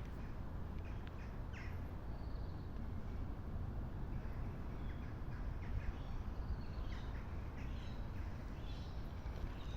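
A steady low rumble, with birds giving short chirps and calls over it, more of them in the second half.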